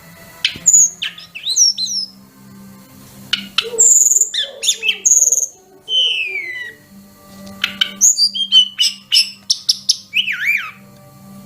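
Sulingan gunung (tledekan gunung) singing a varied run of high whistles, chirps and sliding notes, with a long falling whistle about six seconds in and quick chirping phrases near the end.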